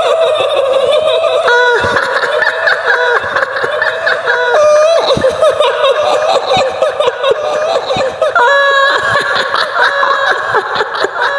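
Shrill, high-pitched woman's laughter, the giggling cackle of a kuntilanak ghost, running on without pause with a quavering, wavering pitch.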